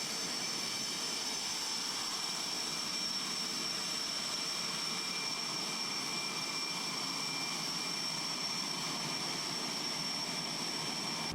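Jet fighter's engines running at idle, a steady rushing noise with a high, unchanging whine, heard from inside the cockpit while taxiing in before shutdown.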